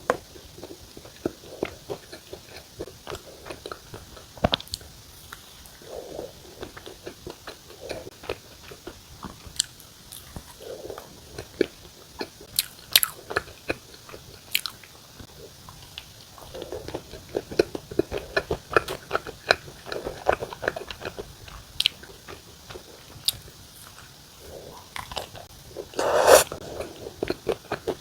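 Close-miked chewing and wet mouth sounds of someone eating a butter-filled mammoth bread, irregular small clicks and smacks throughout, with one louder bite near the end.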